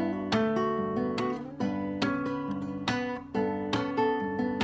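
Acoustic guitar played fingerstyle with the A string tuned down to G: plucked bass notes and chords with percussive string smacks, several attacks a second, notes ringing between them.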